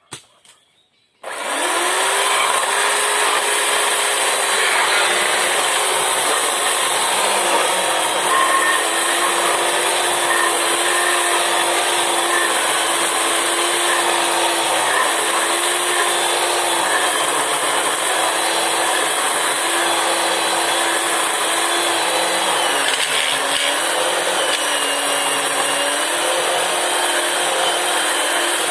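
Chainsaw running at high speed, cutting wood, its pitch sagging slightly now and then as the chain takes the load. It starts abruptly about a second in, after near silence.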